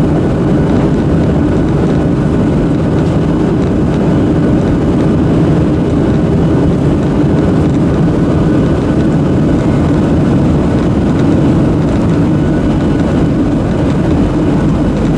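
Steady cabin noise of a Boeing 737-800 in flight: a loud, even rush of airflow with a low drone from its CFM56-7B jet engines and a faint steady hum on top.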